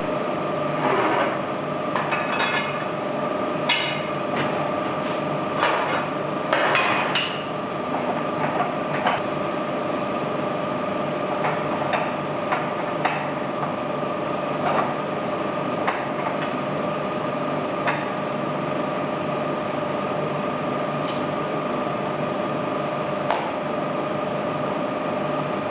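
Sharp metal taps and clinks of tools working on a D49 diesel injector as its nozzle is taken out. They come several in quick succession in the first seven seconds, then singly every second or two. A steady hum runs underneath.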